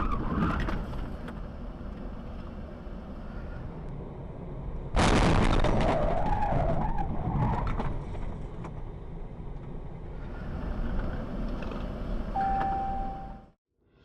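Car noise with a sudden loud burst about five seconds in, carrying a wavering squeal like tyres skidding, fading over about three seconds. A short steady beep sounds near the end, then the sound cuts off.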